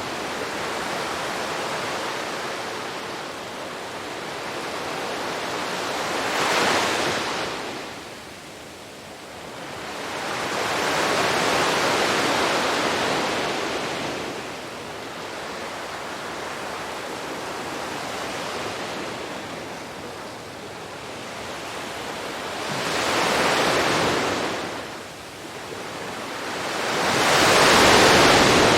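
Sea waves washing onto a beach: a continuous hiss of surf that rises and falls, with four louder breakers swelling and fading, the loudest near the end.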